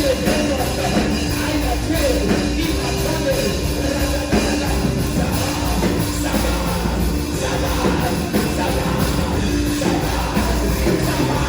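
Loud worship music from a band, steady chords held under voices singing.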